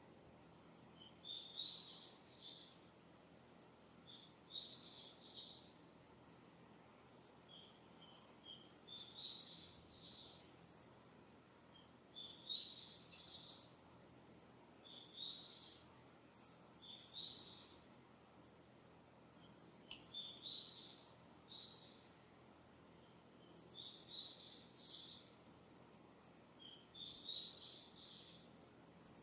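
Wild birds in the distance singing and chirping in short phrases of quick high notes, a new phrase every second or so, over a faint steady hiss of breeze.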